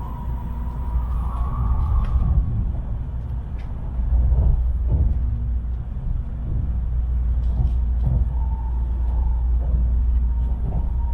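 Cabin noise of a Tokaido Shinkansen train running: a steady low rumble with a faint whine and a few light clicks.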